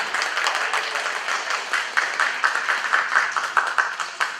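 Boxing-hall spectators clapping, settling into quick, even, rhythmic claps at about four to five a second.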